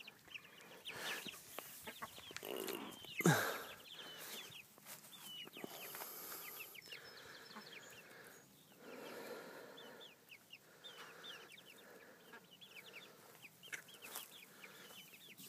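Chickens clucking softly, many short calls scattered throughout, with one louder knock about three seconds in.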